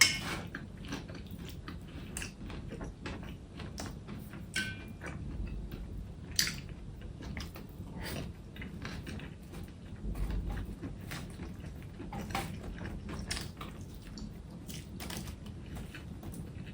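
A person eating, with irregular biting and chewing and many short, crisp crunches and clicks.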